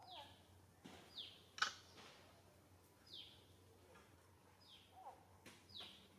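A bird calling faintly, about five short notes that each fall in pitch, spaced one to two seconds apart. A single sharp click about one and a half seconds in.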